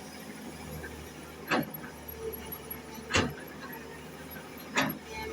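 Excavator's diesel engine running steadily, with a short, sharp squeal repeating about every second and a half, three times.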